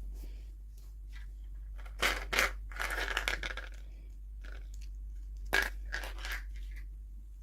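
Toy packaging being handled and torn open by hand, crinkling and crackling in a few short bursts: two about two seconds in, a longer rustle just after, then two more near the end.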